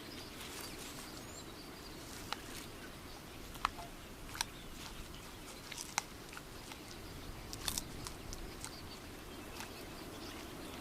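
Faint, steady outdoor ambience with about a dozen short, sharp clicks and cracks at irregular intervals.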